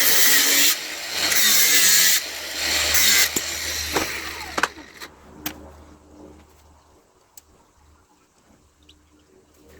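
Power tool working on brass scrap in three short loud bursts, then winding down about four seconds in. A few sharp metallic clicks and taps follow as parts are handled.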